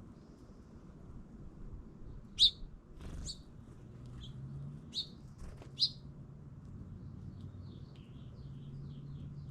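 Songbirds chirping at a feeder: four short, sharp chirps, the first and loudest about two and a half seconds in, with a brief rustle among them, then a quick run of faint, softer twittering notes near the end. A steady low hum runs underneath.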